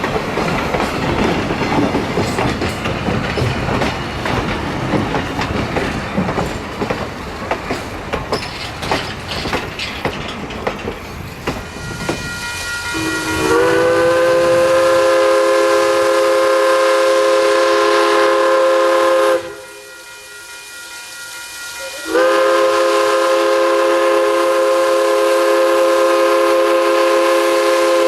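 Steam locomotive on the move with rail clatter and clicking for the first dozen seconds, then two long blasts of its steam whistle, each a chord of several tones held about six seconds, with a short pause between them.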